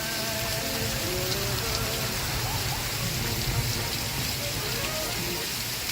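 Steady rain, an even hiss, with faint television audio mixed underneath: a few held musical notes fade out in the first second or so.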